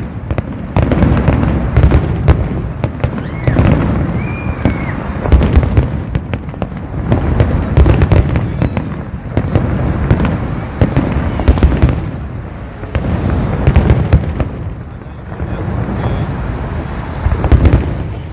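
Fireworks display: rapid, overlapping bangs and crackling over deep booms, with a brief whistling tone about four seconds in.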